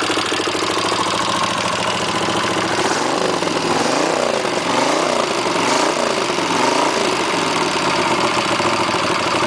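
1982 Honda GL500 Silver Wing V-twin engine idling on a test stand through temporary mufflers on its head pipes, freshly rebuilt, warmed up and running smoothly. Through the middle its tone wavers up and down about once a second.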